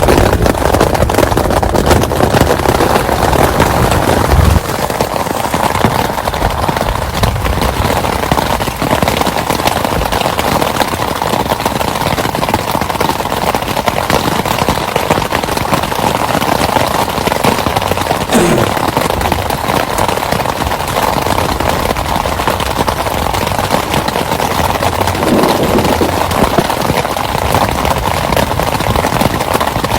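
Heavy rain falling steadily, a dense patter of drops. A low rumble underneath stops suddenly about four seconds in.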